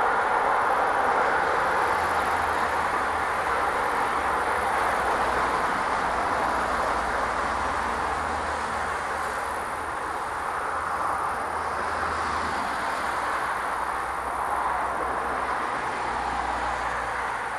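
Freight train of tank wagons rolling away on the track, a steady rumble of wheels on rail that slowly fades.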